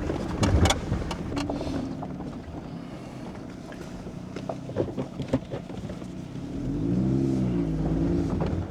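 Off-road vehicle's engine running low and steady as it crawls along a rough trail, with a few scattered clicks and knocks. About seven seconds in, the engine revs up briefly and then eases back.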